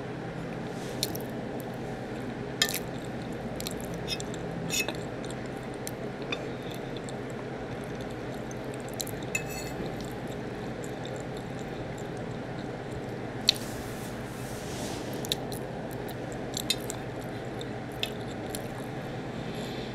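Close-miked chewing of soft food, macaroni and cheese and corn, with scattered short wet mouth clicks and a few sharper clicks over a steady background hum.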